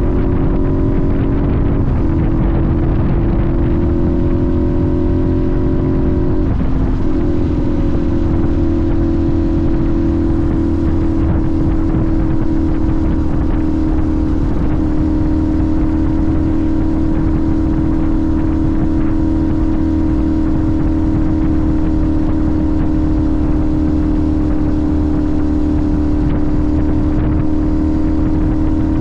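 Sportbike engine running at steady cruising revs, with heavy wind and road rumble; the engine note dips briefly about two seconds in and again about six seconds in, then holds steady.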